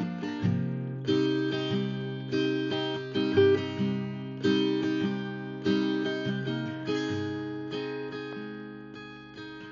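Background music: acoustic guitar strumming chords, each chord ringing out and fading before the next.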